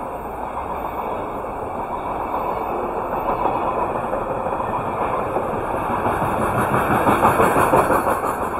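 Freight train of container-laden flatcars rolling past on the rails: a steady rumble and rattle of wheels on track. It grows louder about six seconds in.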